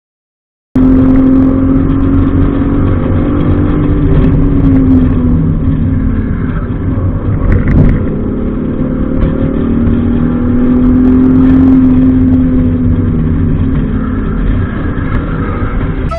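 Open-top car driven hard on a race circuit, heard from inside the cabin: a loud engine drone that rises and falls in pitch as the driver accelerates and lifts through the corners, over heavy road and wind noise. It cuts in suddenly after a second of silence.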